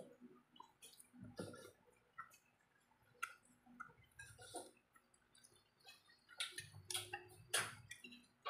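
Faint, irregular wet clicks and smacks of a person chewing grilled chicken and rice, eating by hand.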